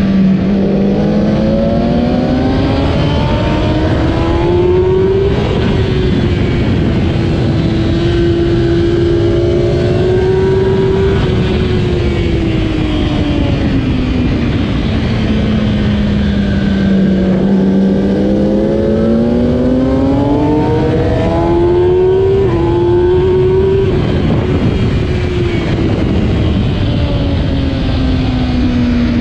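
2008 Kawasaki ZX-10R's inline-four engine at race speed, its pitch climbing for the first five seconds, holding high, then falling away for several seconds and climbing again. A brief step in pitch comes a little past two-thirds through, then the pitch drops once more near the end, all over a steady noisy rush.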